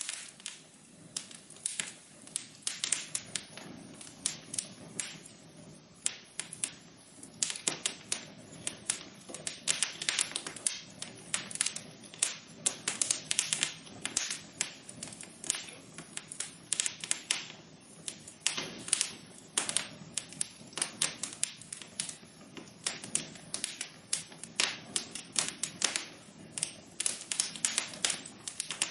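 Fire burning in a fireplace, crackling: dense, irregular sharp pops and snaps over a low steady rush of flame.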